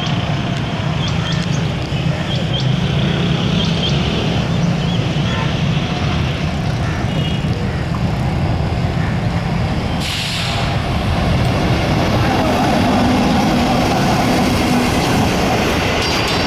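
Passenger train rolling past on the rails, its wheels and coaches giving a loud, steady rumble, with a short rushing burst about ten seconds in.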